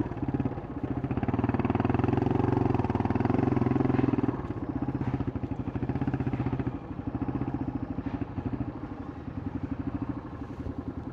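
Yamaha Scorpio's single-cylinder four-stroke engine through its stock exhaust, running on throttle, then easing off about four seconds in and settling to lower revs with a slower, more distinct pulsing beat.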